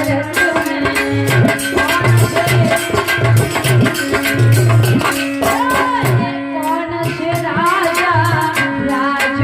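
Hindi devotional bhajan music: tabla keeping a steady repeating rhythm under a wavering melodic line, with a singing voice in places.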